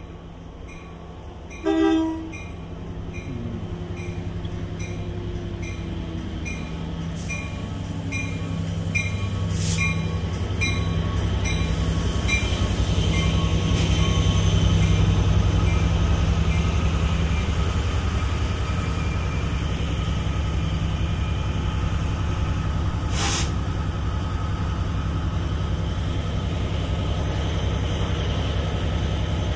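Long Island Rail Road train passing at speed. A short horn blast comes about two seconds in, then the train's running noise builds and stays loud. For the first ten seconds a high sound repeats about every half second.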